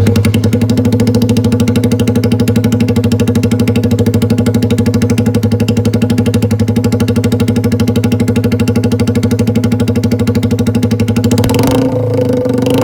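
Suzuki GN125's single-cylinder four-stroke engine idling steadily through an aftermarket bullet muffler, a loud, even, rapid exhaust pulse. The pitch rises slightly near the end.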